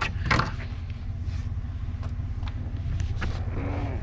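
Vehicle engine idling steadily with a low rumble, with a few light knocks as scrap is set down, the clearest about a third of a second in.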